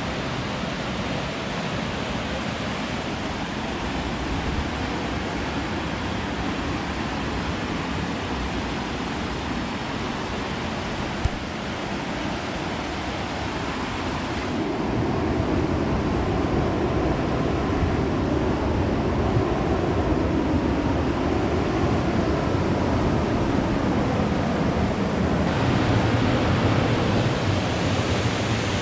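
Fast-flowing river rushing through a gorge, a steady noise of water that gets louder and fuller about halfway through.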